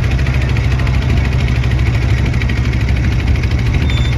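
Boat engine running at a steady pace, a constant low drone with no change in speed.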